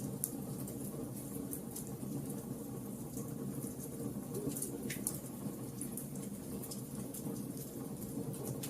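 Campfire crackling: a steady low rush of burning wood with scattered sharp pops and snaps.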